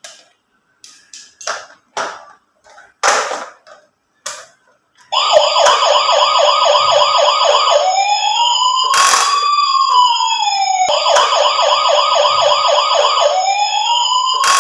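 A few plastic clicks and snaps, then about five seconds in a toy ambulance's electronic siren starts: a fast warbling yelp alternating with a slower rising-and-falling wail, in a repeating cycle.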